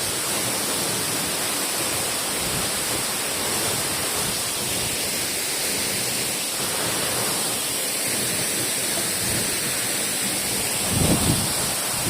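Waterfall rushing, a steady full hiss of falling water, with a few low rumbling bumps near the end.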